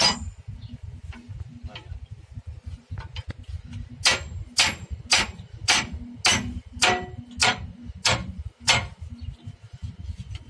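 Hammer blows on the steel of a Tata truck's leaf spring during repair: a single ringing strike, then, from about four seconds in, a run of about nine evenly spaced metallic blows, roughly two a second.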